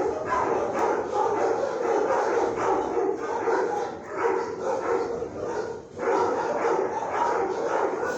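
Dogs barking in an animal shelter's kennels, a steady din of overlapping barks and yips that eases briefly about six seconds in.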